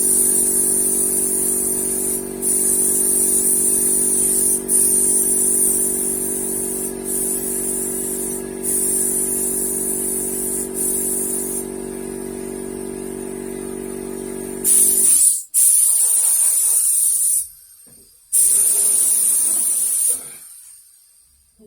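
Paint spray gun hissing in long passes, broken by short gaps where the trigger is let off, over an air compressor's motor running steadily. The compressor cuts out about fifteen seconds in, and two more short bursts of spray follow before the hiss fades near the end.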